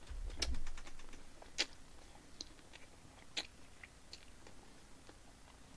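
Close-up chewing of a mouthful of braised spicy chicken, quiet, with a dull low bump in the first second and scattered sharp clicks.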